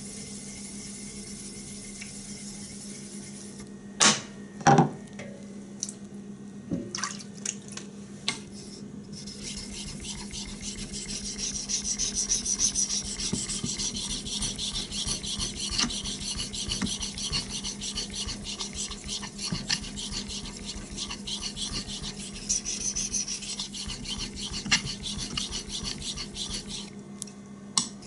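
Knife blade stroked back and forth on a wet Chosera 3000 grit finishing whetstone, a continuous rasping scrape that grows louder about ten seconds in. Two sharp knocks come about four and five seconds in.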